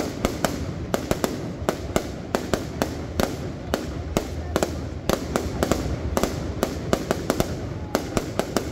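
Fireworks display: a rapid, irregular series of sharp bangs from aerial shells bursting, a few each second.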